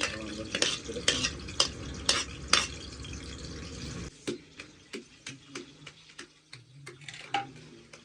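A metal spoon scrapes and knocks against a cooking pot while stirring food that is sizzling in hot oil. About four seconds in, the sizzling stops suddenly, and lighter, sparser taps of the spoon on the pot carry on.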